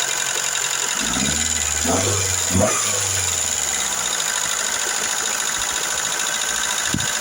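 Car engine idling with the rapid ticking of noisy hydraulic valve lifters. About a second in, a low hum with sliding tones joins for roughly three seconds.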